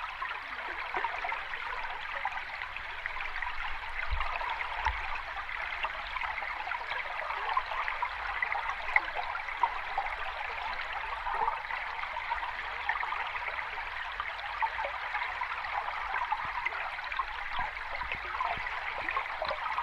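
Sea water washing on the shore: a steady wash with fine fizzing and small splashes.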